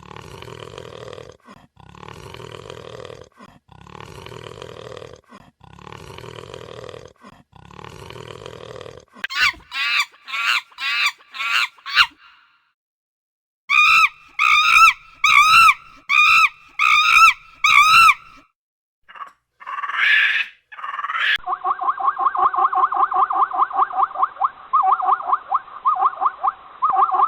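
A series of different animal calls, one kind after another: five long calls at an even pace, then a quick run of short calls, then seven pitched calls that each rise and fall, and finally a fast, steady trill of pulses.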